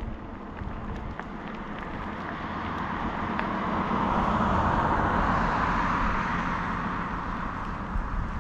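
A car passing by on the road: its tyre and engine noise swells to a peak about halfway through and then fades away, over a low rumble of wind on the microphone.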